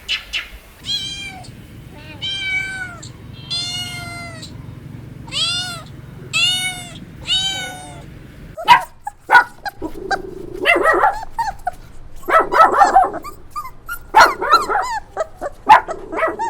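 A kitten meowing repeatedly: about six high, arching meows, each about half a second long. In the second half these give way to sharp clicks and short rough bursts.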